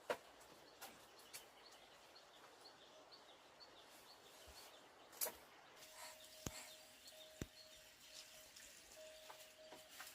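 Near silence: faint outdoor ambience with a bird chirping softly and repeatedly, a few light clicks or knocks, and a faint steady tone that starts and stops several times in the second half.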